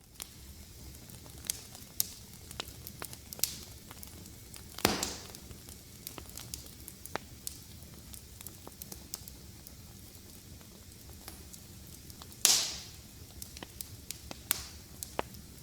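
Fire crackling in a fireplace: a steady run of small snaps over a faint hiss. Two louder pops, about five seconds in and about twelve seconds in, each trail off in a short hiss.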